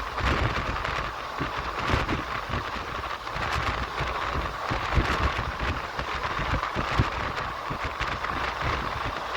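Passenger express train running on the track, heard from inside the coach: a steady rumble of wheels on rails with irregular knocks and a rushing noise of wind on the microphone.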